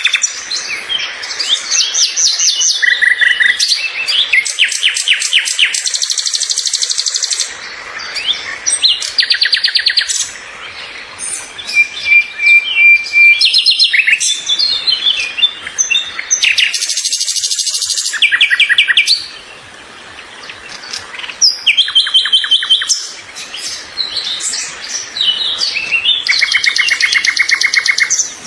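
Songbirds singing: rapid trills and chirping phrases, several at once at different pitches, repeating with short gaps.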